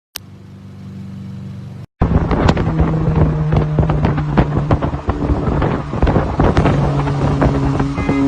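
Hyundai Veloster Turbo's 1.6-litre turbocharged four-cylinder engine under acceleration. A quieter steady drone for the first two seconds, then after a cut a much louder engine run with heavy crackle over it, its pitch stepping a few times.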